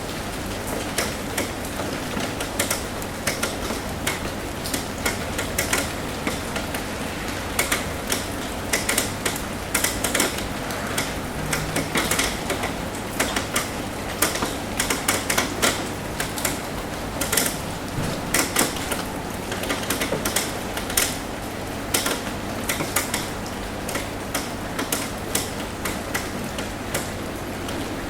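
Rain tapping on a roof: a steady hiss of rainfall with many irregular, sharp taps of single drops striking the roof.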